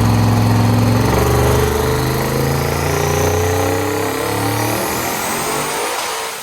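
Twin-turbo Corvette Z06 V8 on a chassis dyno, rising steadily in revs under load over several seconds with a high whine climbing in pitch alongside it. The sound cuts off abruptly at the end.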